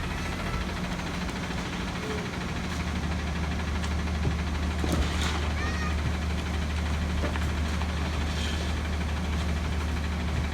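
Peterbilt garbage truck's diesel engine running steadily with a low hum. About halfway through come a few sharp clicks and a brief high squeal.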